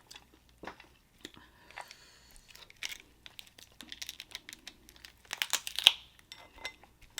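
Close-up eating sounds: shellfish shells from a seafood boil cracking and snapping in the hands, with chewing between. The cracks come scattered, then in a dense loud cluster about five and a half seconds in.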